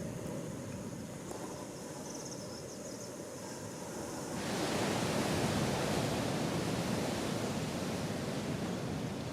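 Ocean surf washing on the shore, a steady rushing noise that grows louder and fuller about halfway through.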